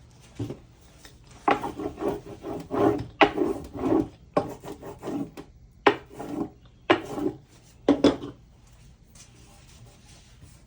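Decoupage paper being rubbed and smoothed down onto a box to push out air bubbles: a run of short rubbing strokes that stops near the end.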